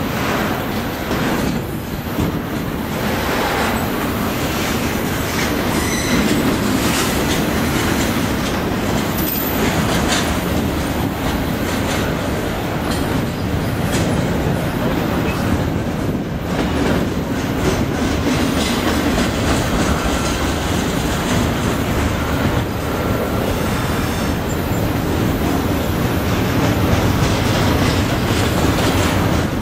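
Double-stack intermodal container cars of a BNSF freight train rolling past at close range: a steady, loud rumble of steel wheels on rail with clicking as the wheels pass over the track, and a few faint, brief wheel squeals.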